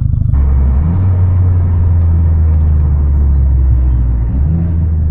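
Exhaust of a big-turbo MK6 Volkswagen GLI's turbocharged four-cylinder, picked up by an exhaust microphone while driving: a steady low drone that grows louder about a third of a second in.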